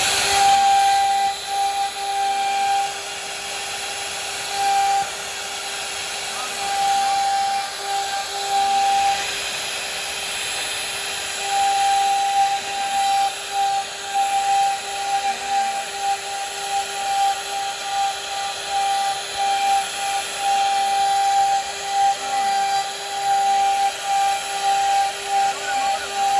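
CNC router running as its spinning bit cuts wood: a steady high-pitched whine over a loud hiss, the level rising and falling as the cut bites.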